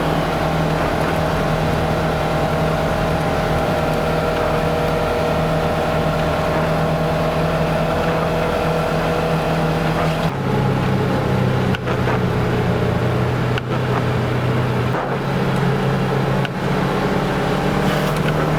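A vehicle's engine running steadily on board while it drives along a snowy road. About ten seconds in the engine note drops to a lower pitch, as with a gear change or easing off, and a few brief knocks follow.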